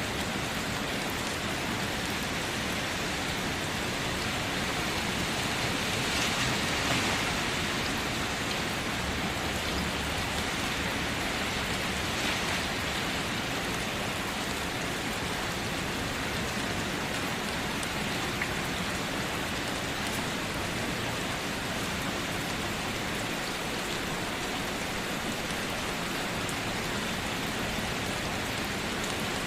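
Steady rain falling, an even hiss that swells slightly about six seconds in.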